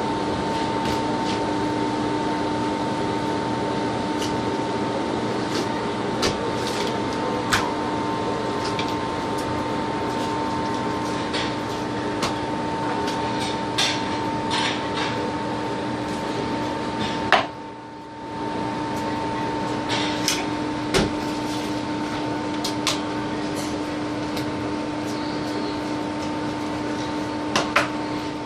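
Knife and hands deboning a whole raw chicken on a cutting board: scattered light clicks and knocks. Under it runs a steady appliance hum with a low and a higher tone, which drops out briefly a little past halfway.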